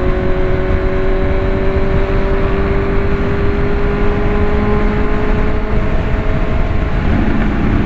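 Vehicle engine running steadily under way, its note rising slowly as it gathers speed, over a dense low rumble.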